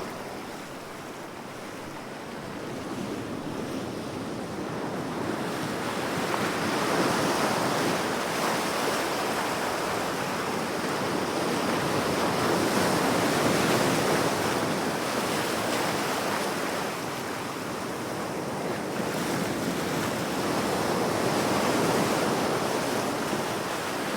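Sea waves breaking and washing on the shore, a steady rushing surf that swells and eases slowly every several seconds.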